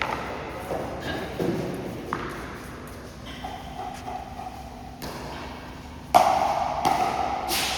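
Pickleball paddles hitting a plastic ball in a rally: sharp pops about every 0.7 s, a short lull, then more hits, the loudest about six seconds in.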